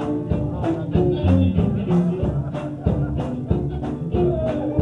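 Live band music with a steady beat, drums and held guitar and bass notes.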